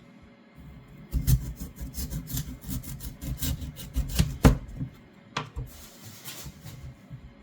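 Knife cutting into a raw swede: a run of quick rasping strokes, about four a second, lasting some three and a half seconds, then a single knock and a short rustle.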